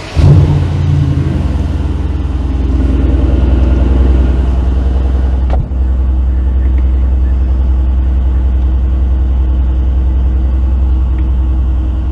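Mercedes-AMG GT R's 4.0-litre twin-turbo V8 starting up with a loud flare right at the start, then settling into a steady, loud idle.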